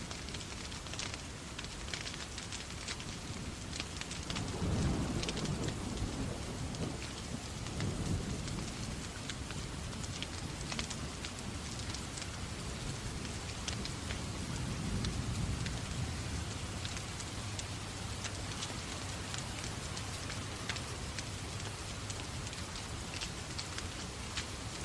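Steady rain falling, with low rumbles of thunder swelling about four seconds in, again around eight seconds and near fifteen seconds. Scattered sharp ticks run through it.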